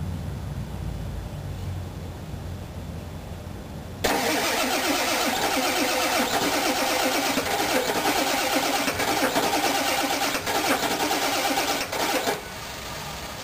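Ford 7.3 L Powerstroke V8 turbo-diesel cranking on its starter for about eight seconds, with a fast, even rhythm of compression strokes, without catching. The cranking then stops abruptly, a cold no-start. A low steady hum comes before the cranking.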